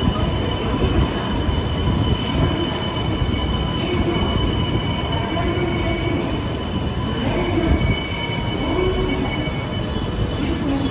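A train running with a steady rumble and a thin, steady high whine over it.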